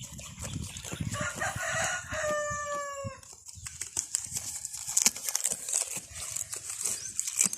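A rooster crows once, one long call about two seconds long that falls slightly in pitch, over a continual crackle and crunch of a goat chewing and rustling mango leaves.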